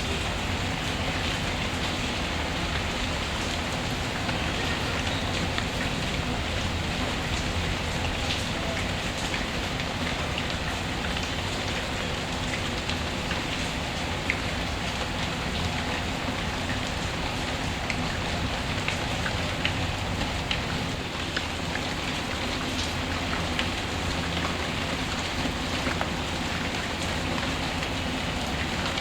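Steady rain falling, mixed with a fireplace's crackling: scattered small pops and ticks over the even hiss of the rain.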